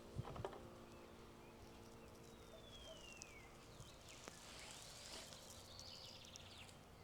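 Faint outdoor quiet with small birds calling: a single falling whistle, then several high chirps and a short rapid trill near the end. Two soft knocks sound just after the start.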